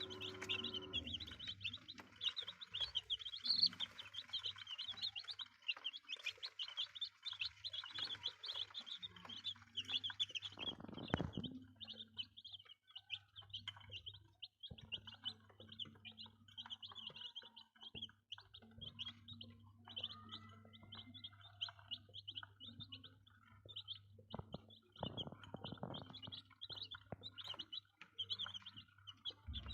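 A brood of young chicks peeping continuously: many short, high cheeps overlapping, over a steady low hum. A single knock about eleven seconds in.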